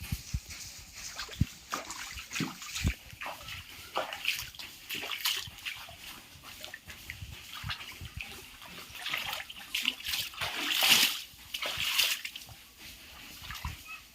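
Water splashing and sloshing in irregular bursts, loudest about ten to twelve seconds in.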